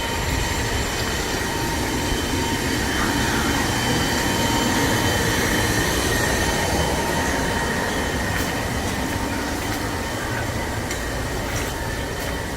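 Wind gusting across the microphone, a steady low rumble with a faint constant whine above it.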